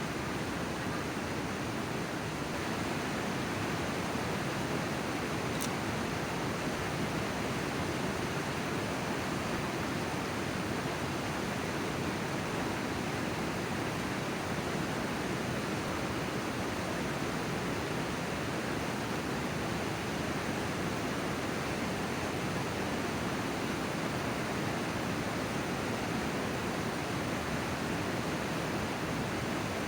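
River water rushing in a steady, unbroken stream.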